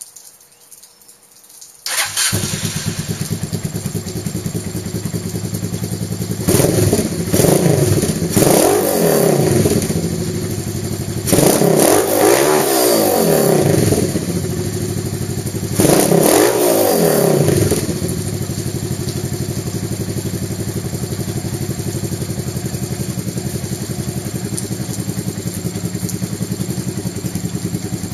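1989 Honda Hawk GT (NT650) 650 V-twin through a Hiperform underseat exhaust. The engine starts about two seconds in and idles, is revved up and back down in three spells, then settles to a steady idle.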